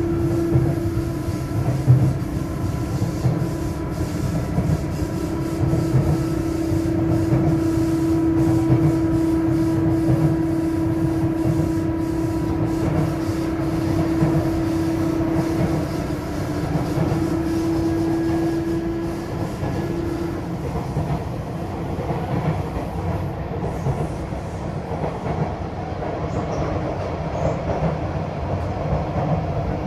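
Sotetsu 8000 series electric commuter train running, heard inside the car: a steady rumble of wheels on track with clicks over rail joints. A steady hum from the Hitachi IGBT traction drive holds, then stops about two-thirds of the way through.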